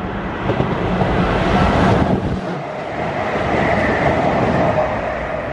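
Passenger train passing through the station at speed on the two-track East Coast Main Line, a loud, steady rush of wheel and air noise. The sound cuts off suddenly near the end.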